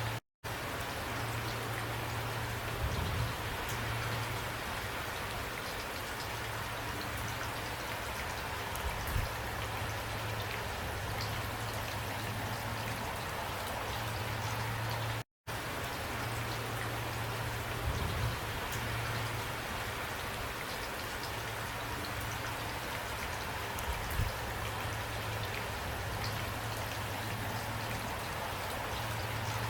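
Steady rain falling, an even hiss. The sound cuts out completely for an instant twice, once just after the start and once about halfway.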